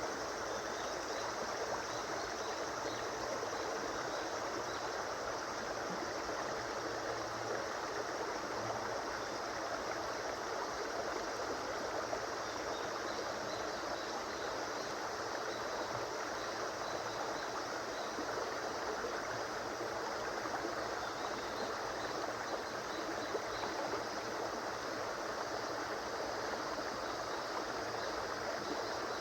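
A river or stream flowing steadily over rocks, a constant rushing and babbling of water.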